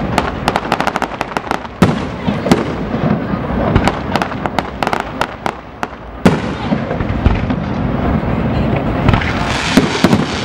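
Fireworks display going off: rapid crackling pops through the first six seconds, with heavier bangs about two seconds in, just past six seconds and again near the end.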